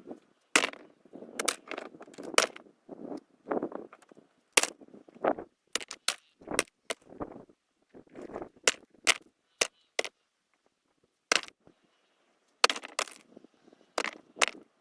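Irregular sharp stone-on-stone clacks and knocks with scraping and shuffling between them, as loose rocks are handled and stacked by hand into a dry-stone wall. The sound pauses briefly about two-thirds of the way through.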